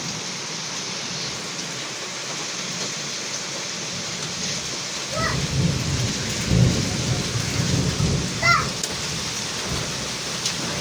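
Heavy rain falling steadily. About five seconds in, a low rolling rumble of thunder begins and carries on through the rest, swelling and easing.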